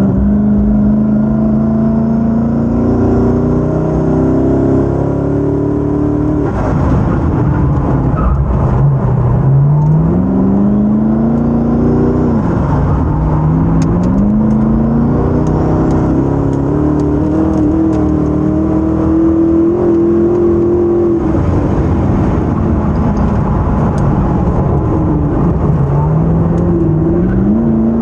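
Koenigsegg Regera's 5.0-litre twin-turbo V8 accelerating hard. The engine note climbs smoothly for several seconds at a time and drops sharply several times as the car slows, then rises again. The note has no stepped gear changes, which fits the car's direct-drive transmission.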